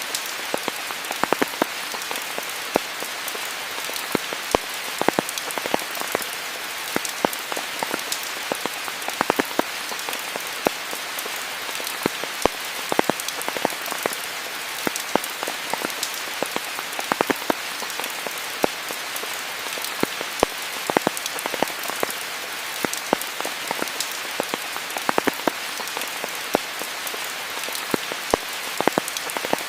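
Steady rain falling, an even hiss with many close, distinct drops pattering and clicking throughout.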